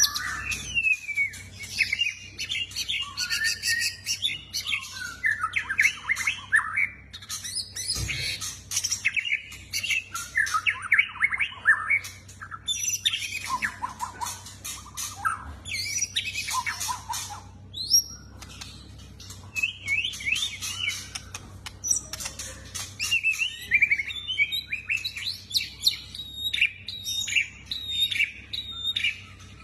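White-rumped shama singing a long, varied song of rapid trills, clear whistles and harsher chattering notes, phrase after phrase with short pauses between. A single thump comes about eight seconds in.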